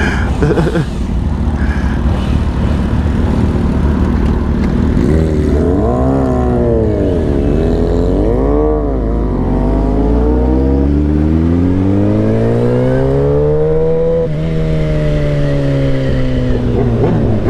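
Engine revving: two quick blips up and back down, then a slow steady climb in pitch for about five seconds that eases off, over a steady low engine rumble.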